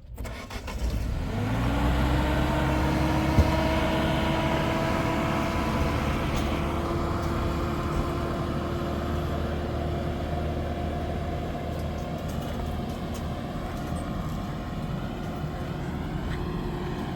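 A vehicle engine starts up and runs steadily; its pitch rises over the first second and a half, then holds level with a deep rumble underneath.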